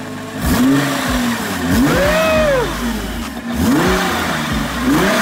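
2024 Nissan GT-R's twin-turbo 3.8-litre V6 accelerating on the road, its pitch rising and falling about four times as it pulls through the gears.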